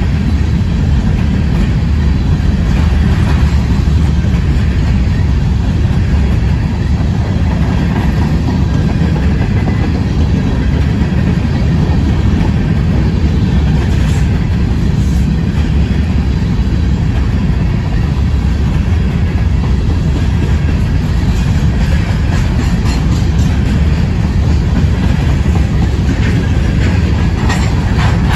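Covered hopper cars of a CSX freight train rolling past at close range: a steady heavy rumble of steel wheels on rail, with scattered sharp clicks that come thicker in the last few seconds.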